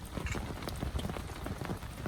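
Heavy rain, with large drops tapping on a surface in a dense, irregular patter over a steady hiss.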